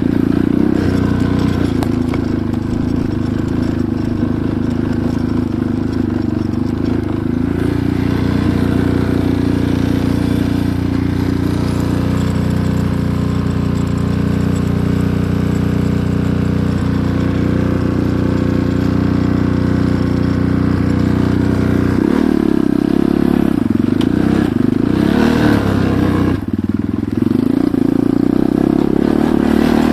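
Enduro motorcycle engine running steadily, with its pitch wavering and shifting for a few seconds about two-thirds of the way through before settling again.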